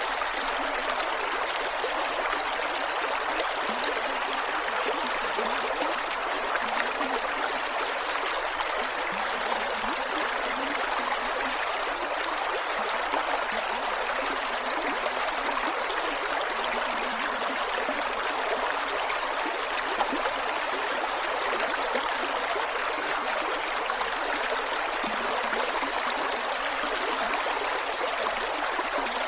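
Creek water flowing over rocks, a steady rushing with small gurgles and trickles.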